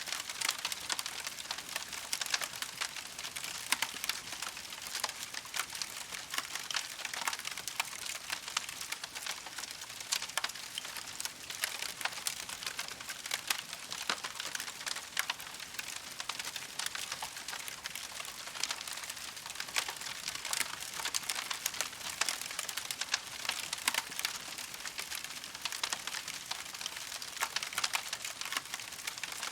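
Campfire burning with steady dense crackling and frequent sharp pops over a soft hiss.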